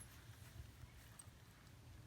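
Near silence, with faint scuffing and patter of a German Shepherd puppy's paws moving in sand.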